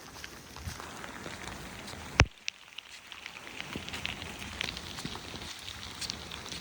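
Rain falling and pattering, with many small drop ticks. A single sharp click comes about two seconds in, and the pattering grows denser after it.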